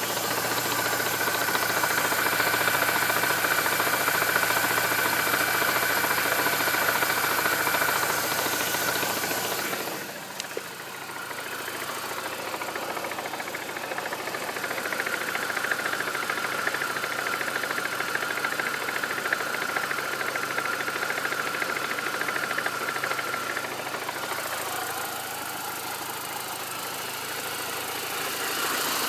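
Mini Cooper R53 John Cooper Works supercharged four-cylinder engine running with a knocking noise, which the owner suspects may come from worn bottom-end bearings. A steady high whine over the engine drops out about a third of the way in and returns for a while in the middle.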